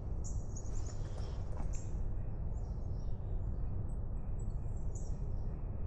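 Songbirds chirping, short high calls a few times, over a steady low rumble of outdoor background noise.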